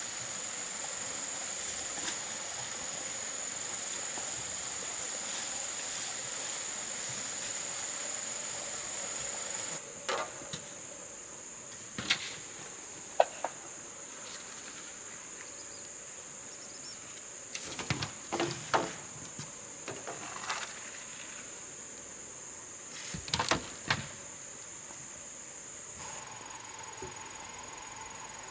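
Insects droning with a steady high-pitched buzz, with scattered sharp knocks and taps in the second half, a few of them loud.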